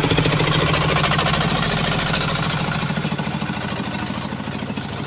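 Engine of a modified farm truck running with a fast, even knocking beat, slowly fading.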